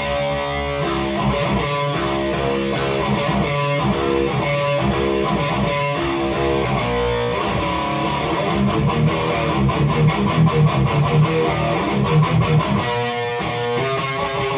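Heavily distorted electric guitar playing metal riffs through a REVV G3 preamp/distortion pedal on its blue, more sinister gain mode. Sustained chords give way to fast, tight chugging in the second half, and the playing stops abruptly at the end.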